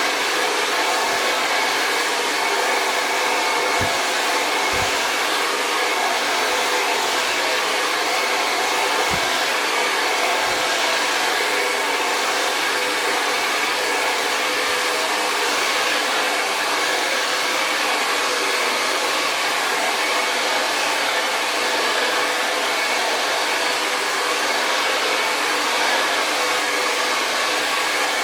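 Hair dryer running steadily at one speed, blowing out thick natural hair.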